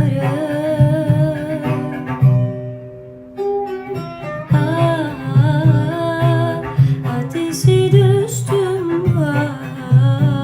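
A woman singing a melodic song with wavering, ornamented pitch over plucked-string accompaniment and a pulsing low beat. The music drops briefly about three seconds in, then resumes.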